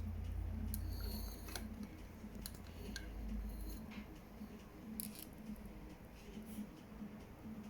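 Scattered short, light clicks and crackles over a low rumble, which is strongest in the first half and fades after about four seconds.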